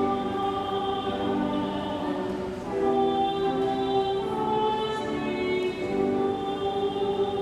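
A choir singing a hymn in chorus, holding each note for a second or more before moving to the next chord.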